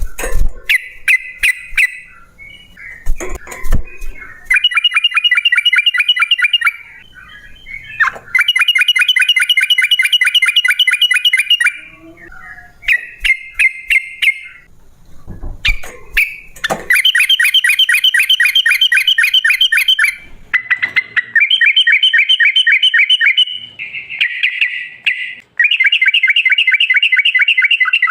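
Yellow-vented bulbul (trucukan) singing in long, fast rolls of rapidly repeated notes, each lasting a few seconds, broken by shorter bubbly phrases. A few sharp clicks come in the first four seconds.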